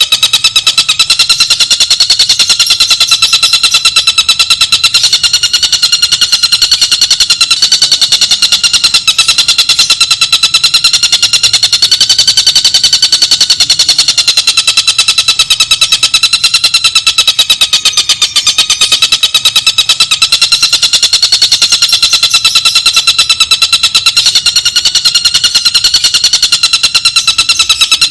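Bird-call training recording: a loud, continuous, very fast rattling trill held on a steady pitch with no break.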